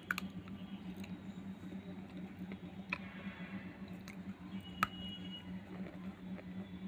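Someone chewing mitti (clay soil), with squishy mouth sounds and a couple of sharp crunches, about three and five seconds in, over a steady low hum.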